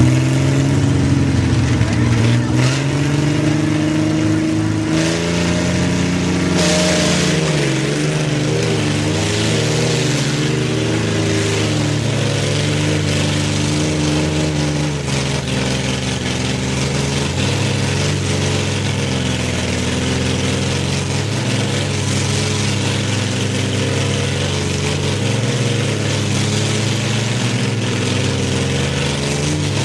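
Truck engines held at high revs under heavy load in a truck tug-of-war, their pitch wavering up and down as the pull sways back and forth.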